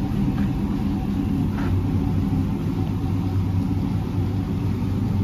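LS-swapped V8 in an OBS Chevy truck idling steadily through a new Carven muffler and dual exhaust tips: an even, low rumble, clean and fairly quiet at idle.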